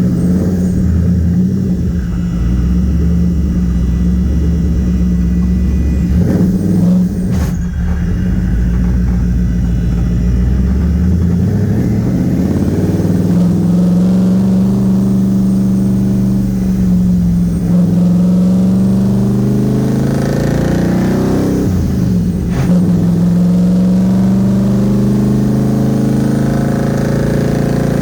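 Twin-turbo Nissan VK56 V8 engine driving the car, heard from inside the cabin: a loud, steady engine note that climbs in pitch as it accelerates, twice, with a brief sharp break about seven seconds in and another around twenty-two seconds.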